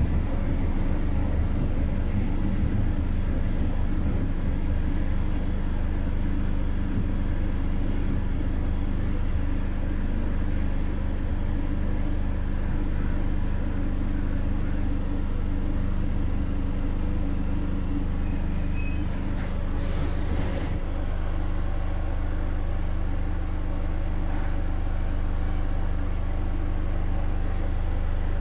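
Renfe 446-series electric commuter train heard from inside the carriage: steady running rumble with a low electric hum. Near two-thirds of the way through come a few short high beeps, then a brief hiss of air.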